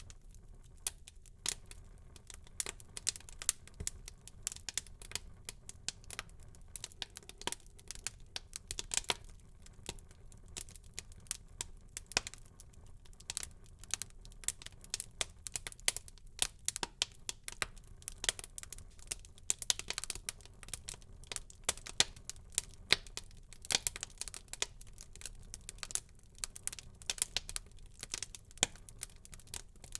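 Wood fire burning in a fireplace, crackling and popping irregularly over a soft low rumble of the flames.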